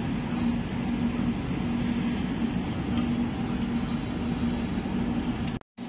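Train noise heard from inside an Indian Railways passenger coach: a steady rumble with a low hum that pulses on and off about once a second. It cuts off abruptly near the end.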